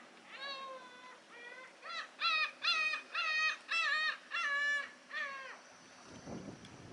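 A bird giving a run of about ten short, clear calls in quick succession, loudest in the middle of the run, over a faint steady wash of harbour water. A low thud follows near the end.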